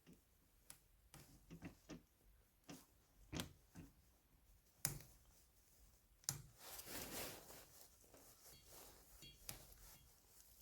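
Faint scattered clicks and knocks of a portable air compressor's hose connector being handled and fitted onto a car tyre's valve stem, the sharpest click about five seconds in.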